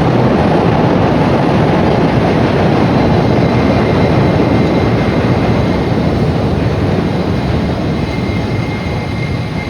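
A CTA elevated 'L' train passing on the steel elevated tracks: a loud, steady, dense rumbling noise that eases a little near the end.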